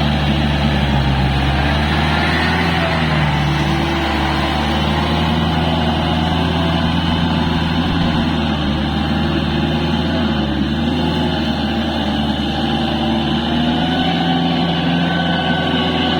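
Kubota L4503 tractor's diesel engine running steadily under load as it pulls a rotavator through a wet paddy field.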